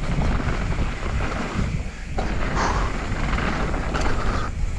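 Wind rushing over an action-camera microphone, mixed with the rumble and rattle of a mountain bike riding a dirt trail.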